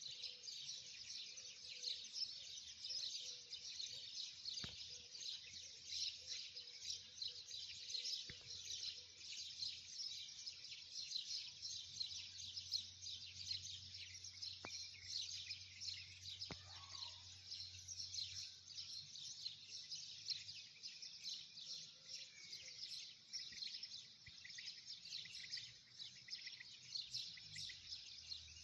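A dense, steady chorus of high rapid chirping from many birds, with a few faint clicks.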